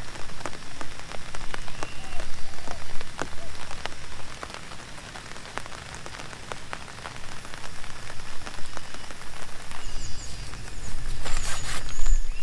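Heavy rain falling, with many separate drops striking as sharp ticks over a steady hiss, and a low rumble underneath that swells in the first few seconds and again near the end.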